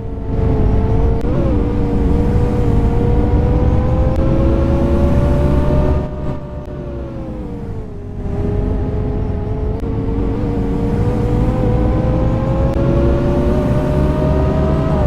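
Scania K230UB bus's diesel engine pulling under load as the bus accelerates, its pitch climbing slowly. About six seconds in it eases off and the pitch falls, as on a gear change, then it pulls and climbs again.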